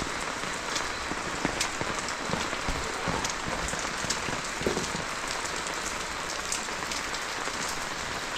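Steady rain falling, an even hiss with scattered sharp ticks of individual drops striking nearby surfaces.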